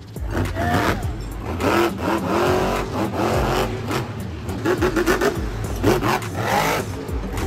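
Monster truck engines revving hard, pitch climbing and dropping again and again in quick bursts, over a steady low rumble, with music playing alongside.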